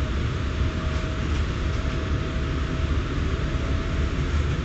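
Steady running noise inside a V-set double-deck electric intercity train carriage under way: a low rumble of wheels and running gear under a continuous hiss, with a faint steady whine.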